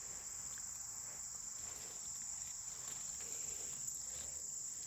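Steady, high-pitched chorus of insects, an unbroken drone with no pauses.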